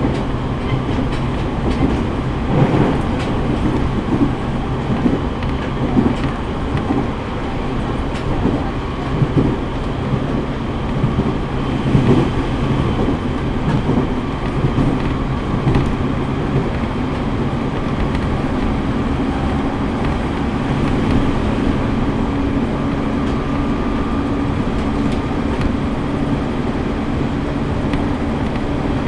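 Running noise of a JR East E501 series electric train heard from inside the carriage: a steady rumble of wheels on rail with rail-joint clacks, more frequent in the first half, over a steady traction-motor hum.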